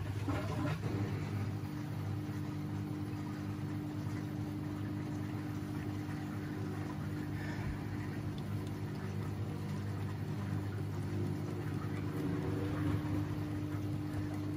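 Washing machine running its intermediate spin during the rinse cycle, the motor and drum giving a steady, even hum at constant speed.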